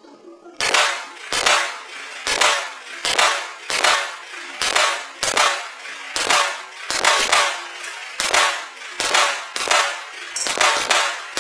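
A series of about fifteen sharp bangs, each with a short ringing tail, roughly one a second and coming a little faster near the end.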